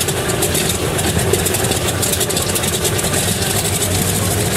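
An aircraft engine running steadily and loudly, with a fast, even pulsing in its hiss.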